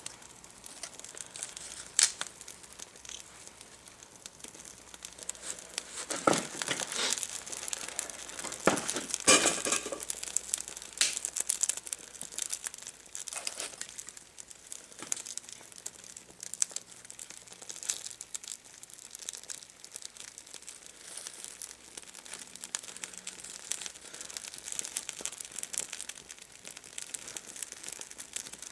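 Irregular crackling and rustling, with scattered sharp clicks that come thickest a little before the middle.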